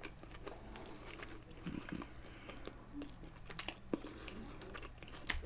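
A person quietly chewing a mouthful of cheeseburger: soft, irregular wet mouth clicks and smacks, with a few sharper ones in the second half.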